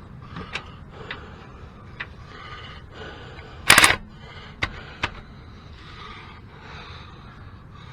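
Hand tools clicking and clanking on metal while working at a seized bolt, with one louder, sharp rattle about halfway through and a couple of single clicks just after it.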